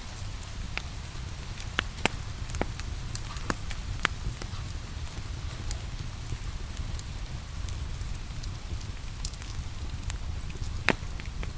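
Wood fire crackling, with sharp scattered pops, the loudest near the end, over a low steady rumble and the hiss of light rain.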